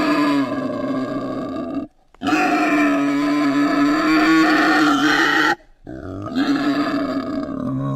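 An animal calling three times, each call long and drawn out at a steady pitch, with short pauses between them.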